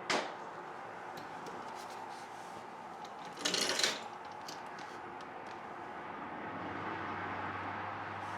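A removed engine part is set down on a workbench with a single knock. About three and a half seconds in there is a brief clatter of metal parts being handled, followed by a few faint ticks and a low steady hum near the end.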